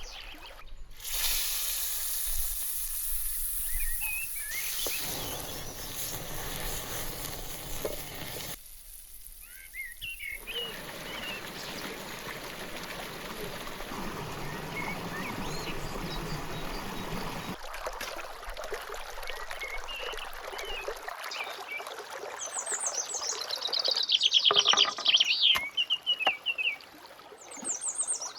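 Outdoor ambience of running water with birds chirping, in several short clips that change abruptly. Near the end comes a loud run of rapid chirps falling in pitch.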